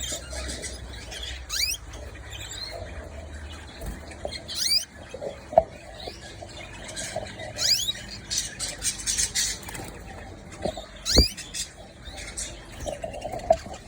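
Canaries chirping: short, high upward-sweeping calls every few seconds, with a run of rapid squeaky peeping around the middle and a few soft knocks.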